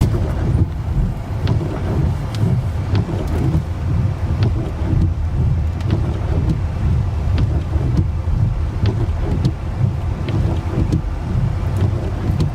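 Strong wind buffeting the microphone: a steady, loud low rumble with occasional sharp clicks.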